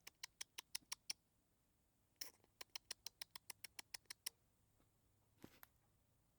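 Squirrel chattering: two faint runs of rapid sharp chips, about six or seven a second, the first about a second long and the second about two seconds long, followed by a single soft rustle near the end.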